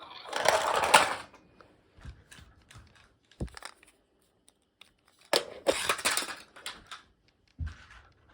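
Small plastic toy trucks being handled and driven, their plastic wheels and gears rattling and clicking in two bursts, with scattered clicks between.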